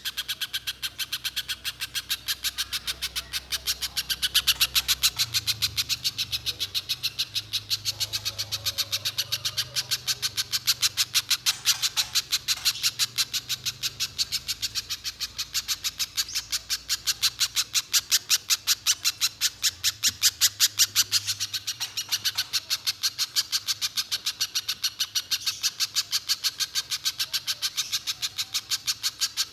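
A spiderhunter (pijantung pisang) singing a long, unbroken run of rapid, evenly spaced sharp notes. This is the bird in full, continuous song.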